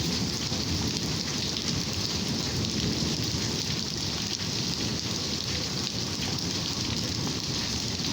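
Rain falling steadily in a thunderstorm: an even hiss with many fine drop ticks.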